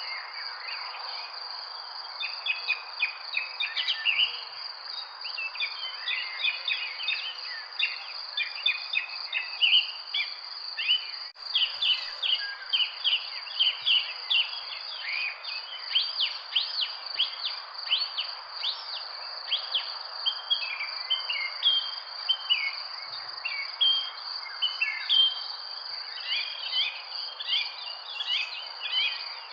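Many small birds chirping and trilling in quick, overlapping calls over a steady, high insect drone, with a soft background hiss.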